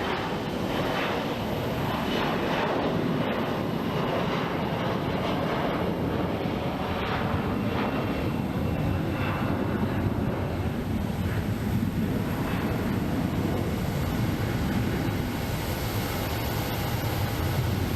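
Jet airliner's engines at high power during a departure, a steady rushing noise with faint shifting sweeps in its first half.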